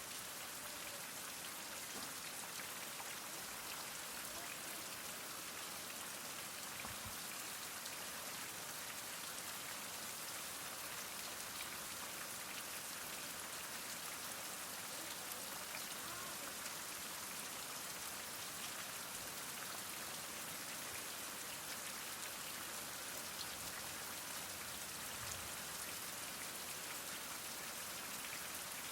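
Heavy rain falling steadily: an even, unbroken hiss of many drops with no thunder.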